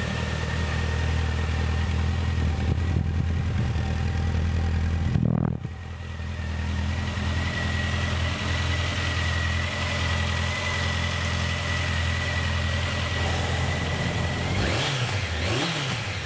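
2014 Honda CB1100's fuel-injected, air- and oil-cooled inline-four idling steadily and smoothly, with one quick throttle blip about five seconds in.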